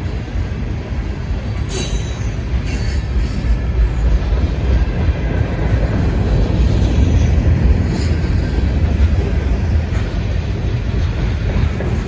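Freight train rolling past, a steady low rumble that slowly builds, with a few sharp high-pitched squeaks or clicks about two seconds in.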